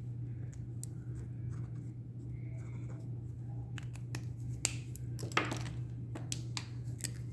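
Acrylic paint pen marker being handled while drawing: a few sharp clicks and a brief scratch in the second half, over a steady low hum.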